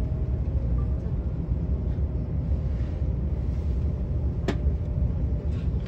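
Steady low rumble of a KTX high-speed train heard inside the passenger cabin while it runs, with a single sharp click about four and a half seconds in.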